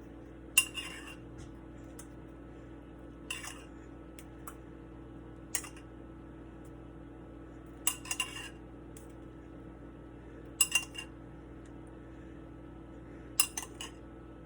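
Metal utensil clinking against a dish in short groups of one to three ringing strikes, about every two and a half seconds, over a steady low hum.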